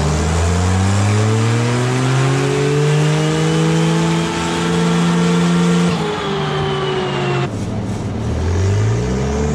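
Turbocharged engine of a scratch-built buggy revving through a pull on a chassis dyno: the pitch rises for about six seconds and levels off, then falls away and cuts off suddenly, and a fresh rev begins rising near the end. The engine is held back by the ECU's limp mode and won't rev out.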